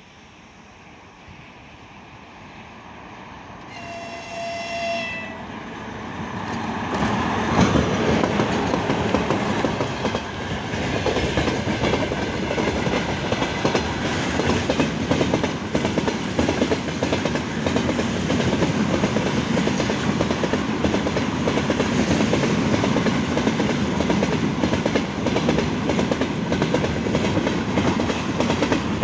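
Freight train hauled by a 2ES6 'Sinara' electric locomotive approaching and growing louder, with one horn blast of about a second and a half about four seconds in. From about seven seconds in comes the loud, steady rumble and clatter of wagon wheels on the rails as the train passes close.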